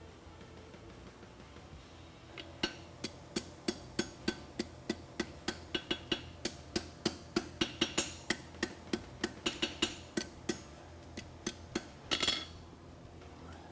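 Hand hammer striking hot steel on an anvil in quick light blows, about three to four a second for some eight seconds, tacking a forge weld on a concave horseshoe. A short clatter comes near the end.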